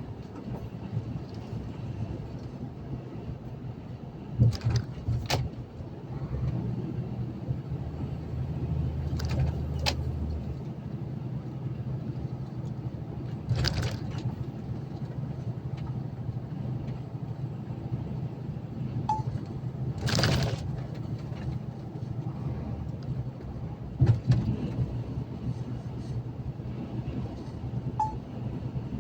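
Steady engine and road drone inside a moving truck's cab, with a handful of sharp knocks and rattles scattered through it and two short faint beeps near the middle and the end.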